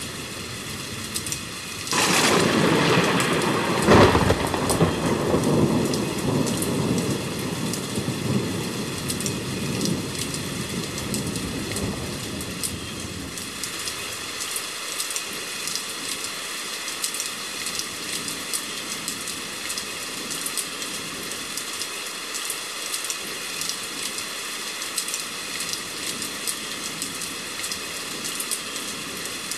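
Rain falling steadily with many small drop ticks, and a thunderclap: a sudden crash about two seconds in, a sharp crack near four seconds, then a rumble that fades away over several seconds.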